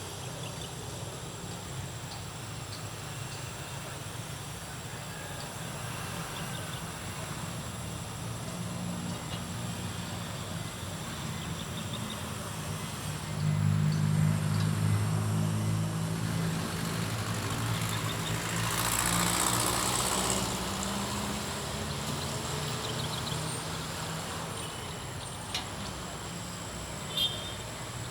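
A steady low motor drone with a hum-like pitch runs throughout. It grows louder about halfway through, and a broad rushing swell comes and goes a few seconds later. Two short clicks sound near the end.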